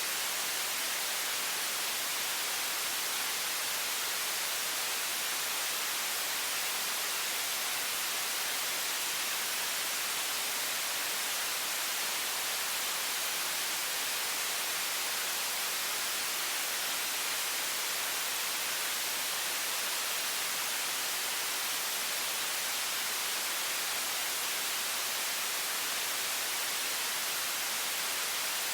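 A high-pressure water faucet stream running as a steady, even hiss that is bright, high-weighted and unchanging throughout.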